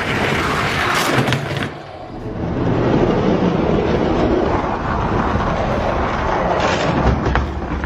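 Die-cast Hot Wheels monster trucks rolling down a plastic drag-race track, a loud, steady rumbling rolling noise that eases briefly about two seconds in and stops near the end.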